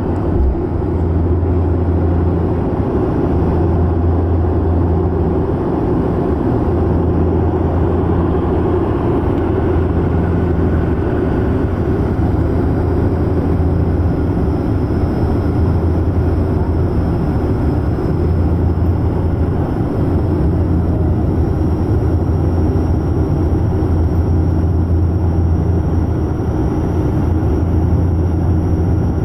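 Steady aircraft engine drone and rushing airflow, heard from inside the passenger cabin: a constant low hum under a loud even rush.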